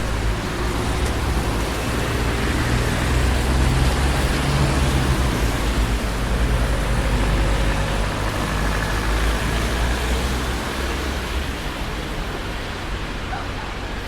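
Traffic on a busy city street: a steady wash of road noise with a low rumble from passing cars, growing louder for a few seconds midway and then easing off.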